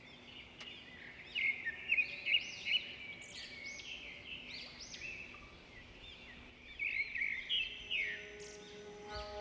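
Birds calling in a busy chorus of quick, repeated, arching chirps, loudest in clusters about a second and a half in and again near the end. Soft held music notes come in just before the end.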